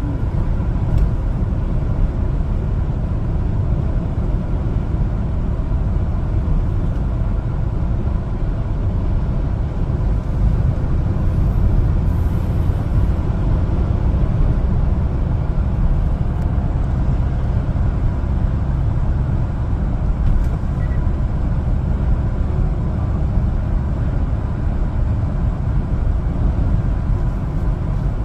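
1-ton LPG cargo truck driving on the road: a steady low rumble of engine and road noise.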